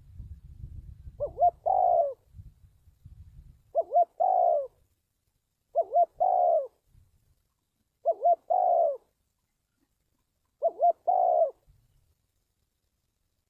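Spotted dove cooing: five repeated phrases about every two to three seconds, each two short notes followed by a longer one.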